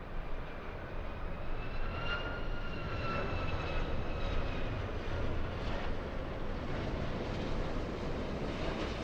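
Jet engines of a Boeing 757-300 airliner running: a steady rush with a high engine whine that dips slightly in pitch a few seconds in.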